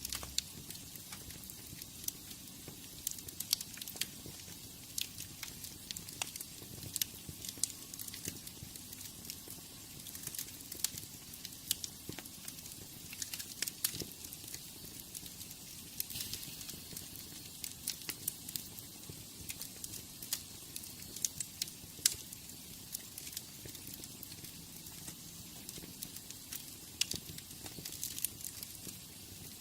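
Wood fire in a fireplace crackling: irregular sharp pops and snaps over a steady soft hiss of flames.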